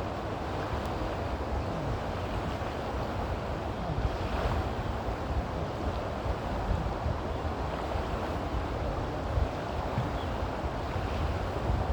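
Steady rushing noise with a fluctuating low rumble, wind buffeting the microphone.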